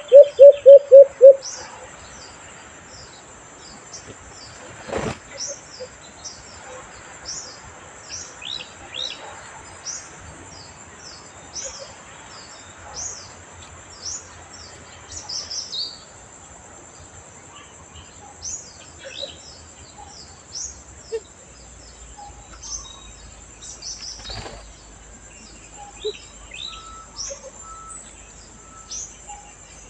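Birds chirping with many short, high notes throughout. Right at the start comes a loud run of about seven quick, low notes, and there are two sharp clicks, one about five seconds in and one about twenty-four seconds in.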